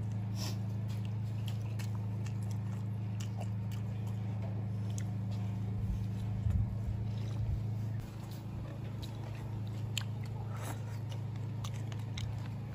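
A person biting into and chewing food, with scattered small clicks and crunches, over a steady low hum.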